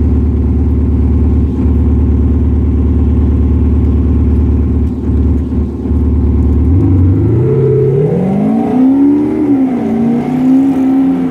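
Porsche Macan 3.0 V6 diesel engine through a Cargraphic aftermarket exhaust, idling with a steady low drone, then revved from about seven seconds in, the pitch climbing, dipping briefly and climbing again near the end.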